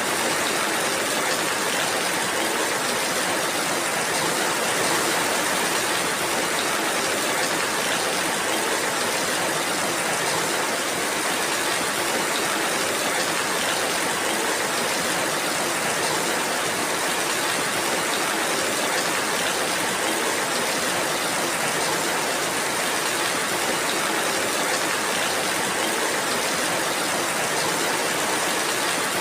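Steady rainfall, a dense even hiss of drops with no breaks or distinct single impacts.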